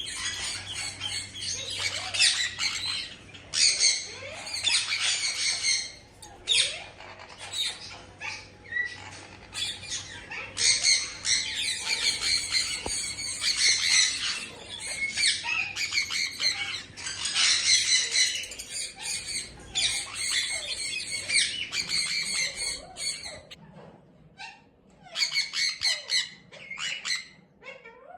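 A blue male parakeet makes harsh, rapid squawking calls in long runs while guarding his nest box, the calls thinning to scattered single squawks near the end.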